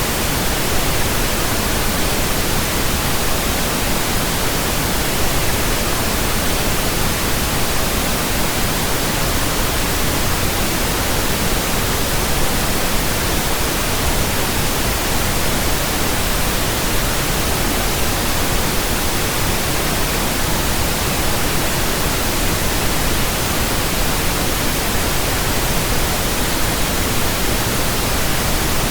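Steady pink noise from a pink noise generator, a constant even hiss across the whole range with no breaks, the test signal used to burn in speakers and earphones.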